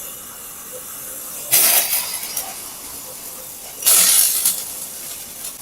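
Red-hot metal ball sizzling in Fanta: two sudden loud bursts of hissing, about a second and a half and four seconds in, each dying down within about half a second, with a softer steady hiss between.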